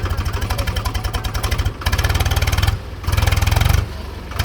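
Swaraj 735 FE tractor's three-cylinder diesel engine pulsing steadily at first, then revved in repeated short bursts, about a second each, with brief drops in between.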